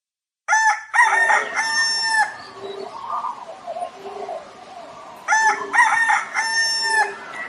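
Rooster crowing twice: the first cock-a-doodle-doo starts about half a second in and the second comes about five seconds in, with fainter, shorter calls between them.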